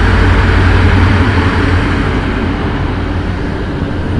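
Express train passing close by: a loud, steady rumble of diesel locomotive and wheels on rail that eases slightly in the second half.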